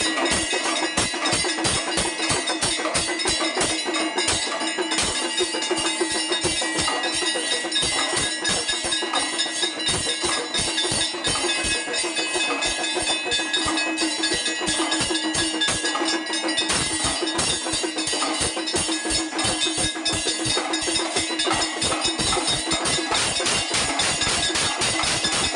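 Temple aarti music: dhol drums beating rapidly under continuous clanging of bells and cymbals, a dense unbroken din.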